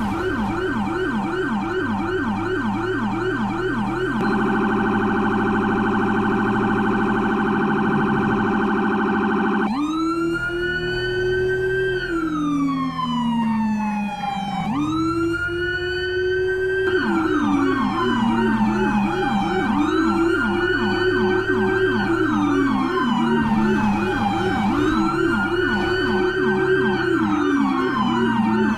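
Electronic police escort siren cycling through its tones: a fast yelp, then a very rapid warble from about four seconds in, then slow rising and falling wails from about ten seconds in, and back to a yelp mixed with long falling sweeps in the second half.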